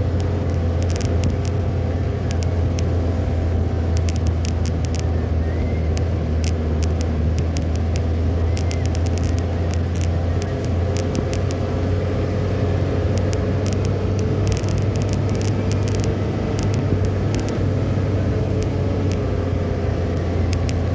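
Vehicle driving, with a steady low drone of engine and road noise, scattered through with sharp clicks.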